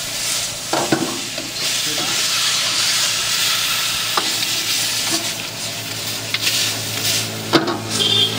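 Chicken pieces sizzling as they fry in a large wok, stirred and scraped with a metal ladle and spatula. Three sharper knocks of the utensils against the pan come about a second in, at about four seconds and near the end.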